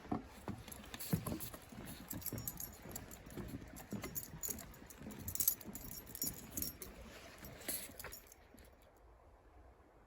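Footsteps knocking on a wooden footbridge with small metal items jingling along with them, stopping about eight seconds in.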